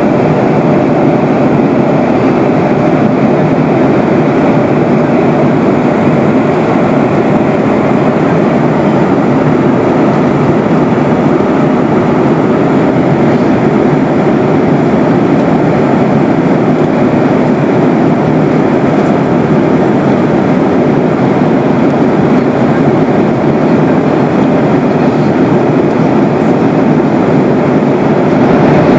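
Steady cabin drone inside a Boeing 737-800 airliner: its two CFM56-7B engines and the rush of air past the fuselage, holding level with no change.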